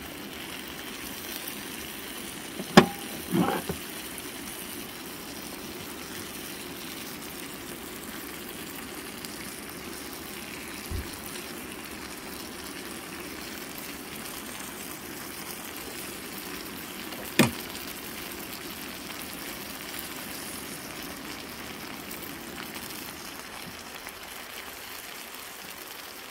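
Mushrooms, capsicum and eggs sizzling steadily in a frying pan over a portable gas stove. A few sharp taps break through the sizzle: two close together about three seconds in, the first of them the loudest sound of all, and one more about two-thirds of the way through.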